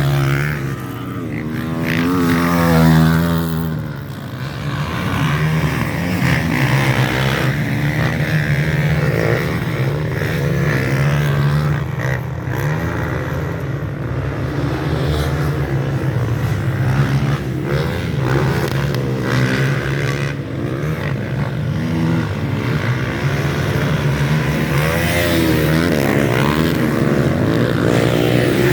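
Several motocross bikes racing around a dirt track, their engines revving up and down as they accelerate and pass, with overlapping engine notes throughout.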